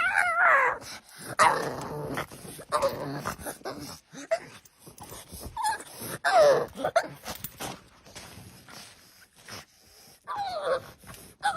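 A dog whining and whimpering: several high calls, each sliding down in pitch, spaced out with short pauses between them.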